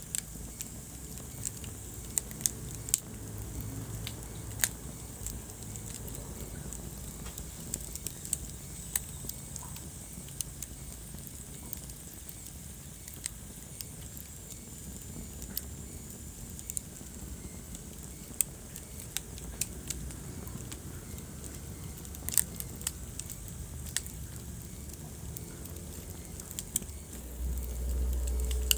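Wood fire burning in a fireplace: a steady low hiss with irregular sharp crackles and pops, and a brief low rumble near the end.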